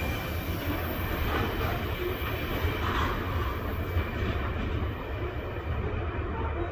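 Loaded freight train's cars rolling away on the rails: a steady rumble of steel wheels on track, the higher part of the sound thinning out near the end as the train recedes.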